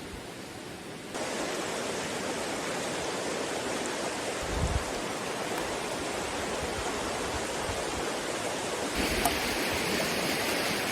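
Creek water rushing steadily over rocks. It gets louder about a second in and brighter in tone near the end, with a brief low bump about halfway through.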